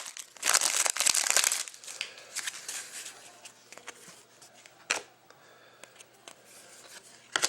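Plastic wrapper of a hockey card pack crinkling as it is torn open and handled, loudest in the first couple of seconds, then quieter rustling with two sharp taps.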